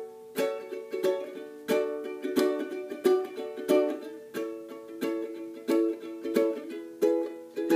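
Ukulele strummed in a steady rhythm, about two chord strokes a second, playing the instrumental intro before the singing comes in.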